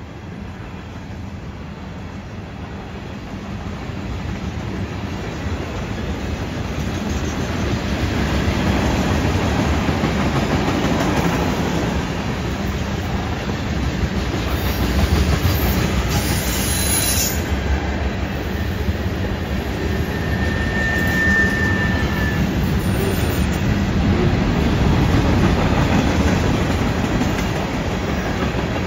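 Freight cars of a CN freight train (gondolas, tank cars and covered hoppers) rolling past on a curve: a steady rumble and clatter of steel wheels on rail that grows louder over the first several seconds. About two-thirds of the way through, a wheel flange squeals briefly on the curve.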